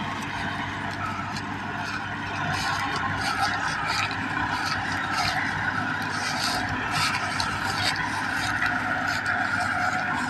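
Massey Ferguson 385 tractor engine running steadily, getting a little louder about two seconds in, with scattered scraping and rattling clicks over it.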